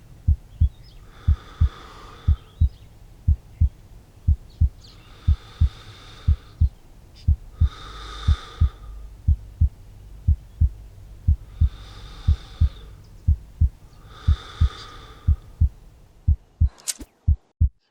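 Heartbeat sound effect: slow, steady paired lub-dub thumps about once a second, with slow, heavy breaths in and out laid over them. Near the end there is a sharp crack and the background drops out briefly while the heartbeat goes on.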